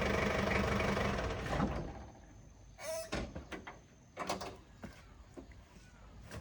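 A pickup truck's engine running and then shut off about two seconds in. Scattered mechanical clicks and knocks follow, with one short squeak.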